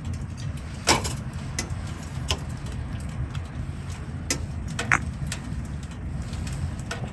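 Wood campfire burning: a low steady rumble with irregular sharp pops and crackles, one louder pop about a second in and another near five seconds.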